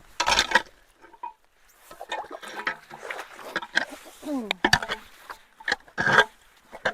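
Water gurgling and splashing in irregular bursts as it starts to drain into a partly cleared culvert blockage.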